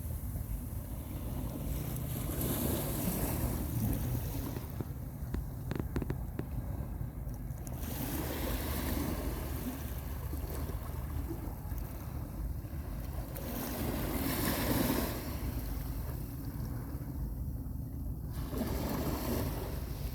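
Small sea waves washing onto a beach, swelling and ebbing about every five or six seconds, over a steady low wind rumble on the microphone.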